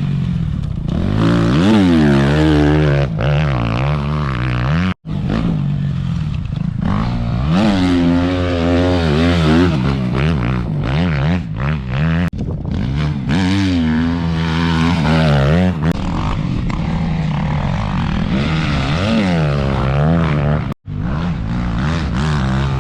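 Motocross bike engine revving up and down again and again, its pitch rising and falling as the throttle opens and closes. Two brief dropouts to silence, about five seconds in and near the end.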